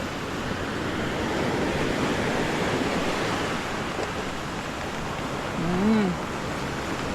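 Storm-driven surf breaking and washing onto a beach: a steady, dense rushing. A short voiced sound rises and falls about six seconds in.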